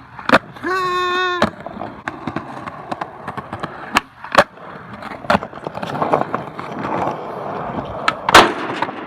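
Skateboard wheels rolling on concrete, broken by several sharp clacks and slaps of the board, the loudest near the end. A short held pitched sound, a shout or squeal, comes about a second in.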